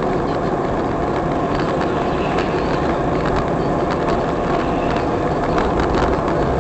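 A vehicle engine running steadily, with a few light clicks near the end.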